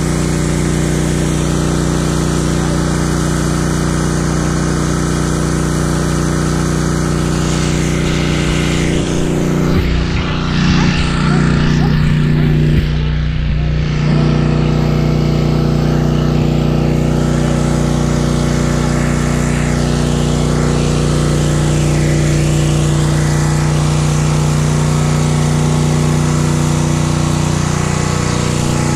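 Gas engine of a pressure washer running steadily at a constant pitch, the sound breaking up for a few seconds about ten seconds in before settling back.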